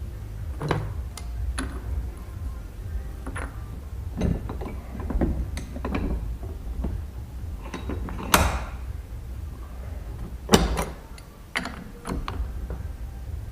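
Parts of an oil filter housing being handled: scattered clicks and knocks of metal parts, the two loudest about eight and ten and a half seconds in.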